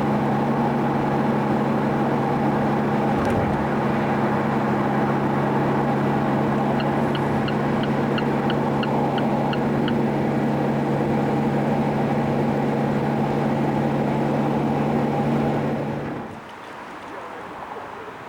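Car engine running at a steady speed, a constant drone that holds its pitch, then drops away sharply about two seconds before the end. A quick run of about ten light ticks comes midway.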